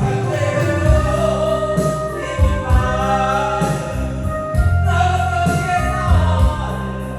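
Singing over amplified instrumental accompaniment with a strong bass line.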